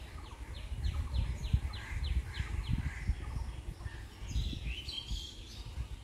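A bird calling a quick series of about ten short, falling notes, roughly four a second, then a brief higher warbling call about four and a half seconds in. A low rumble runs underneath.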